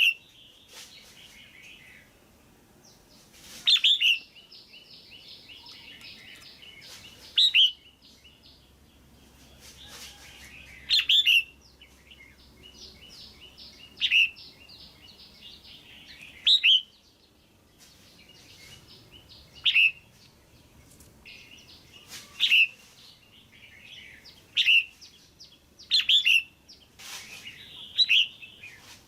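Female red-whiskered bulbul calling: a loud, sharp call every two to three seconds, with rapid chattering trills in between.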